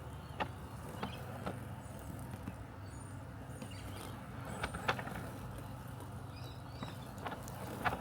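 Robotic lawn mower running with a steady low mechanical hum, with scattered sharp clicks a few times.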